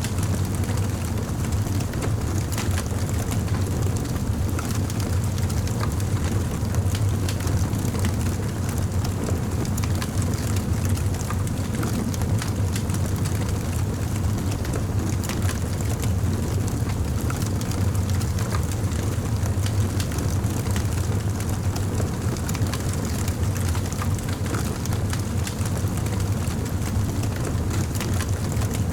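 Campfire burning, with a steady low rumble under frequent small crackles and pops.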